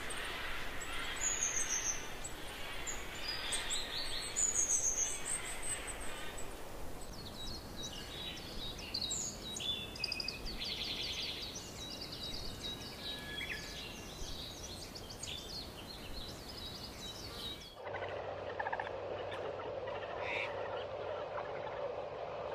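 Wild birds chirping and calling, many short overlapping songs. About eighteen seconds in, the sound cuts to a duller recording with a steady low hum.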